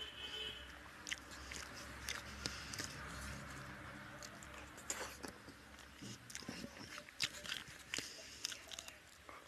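Close-miked eating by hand: rice being chewed with wet smacks and many sharp mouth clicks, thickest in the second half, along with soft sounds of fingers mixing rice on the plate.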